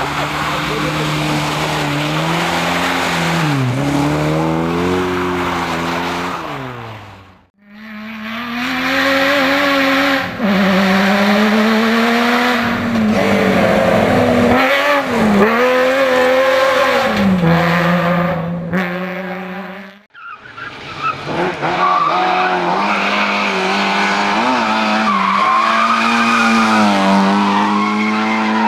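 Competition car engines revving hard, their pitch rising and falling through gear changes, with tyres squealing. The sound breaks off twice and starts again on another passage.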